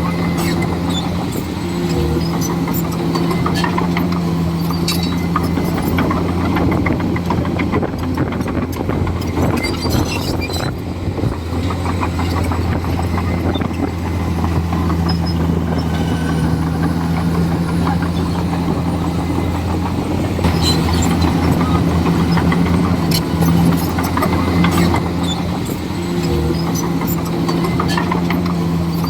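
Komatsu D41E crawler bulldozer's diesel engine running steadily under load, with scattered clicks and cracks over it.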